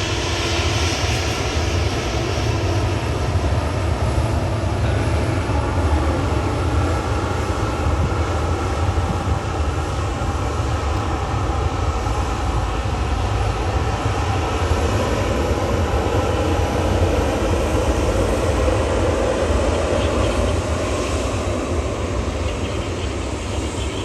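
Jet airliner engines heard loud and steady, with a deep rumble underneath and no sharp changes.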